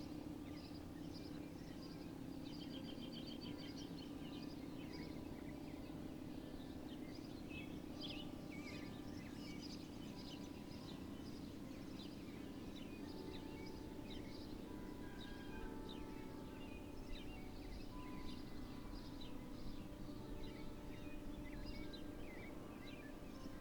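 Small birds chirping and twittering over a steady low background hum.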